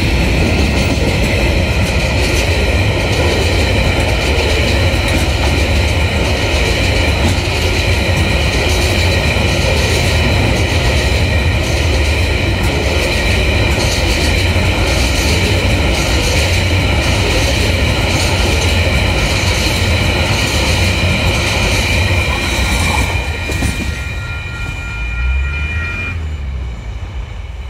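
Container wagons of a freight train rolling past over a level crossing, with a loud steady rumble and a rhythmic clatter from the wheels. A steady high ringing sounds over it. The wagon noise falls away about 23 s in as the end of the train passes. The ringing stops a few seconds later.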